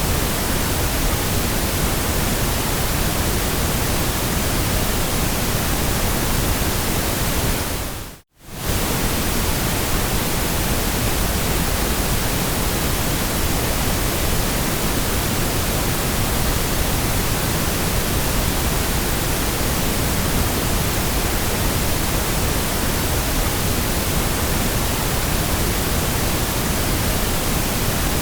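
Steady synthetic noise, an even full-range hiss for sleep and study. About eight seconds in it fades out to silence for a moment and comes straight back.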